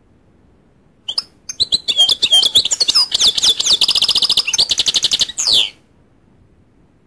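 Goldfinch singing one song phrase: a few scattered notes about a second in, then a run of twittering, slurred notes that turns into a fast, even trill and ends on a falling note.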